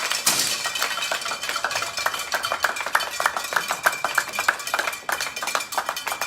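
A dense, irregular run of light clicks and clinks, several a second, over a faint steady high tone.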